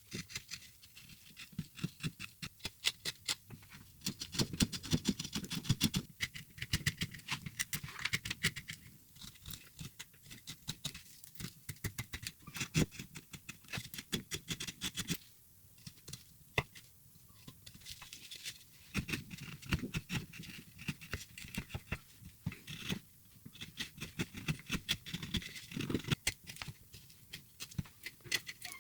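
Carving chisel cutting into a wooden block: a fast, irregular run of short cuts and clicks, pausing briefly now and then.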